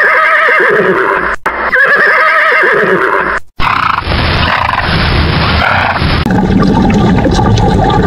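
Horse whinnying: two long calls with a wavering pitch, a brief break between them, then a harsher, noisier call after a short gap. About six seconds in, the calls give way to a steady low rushing noise.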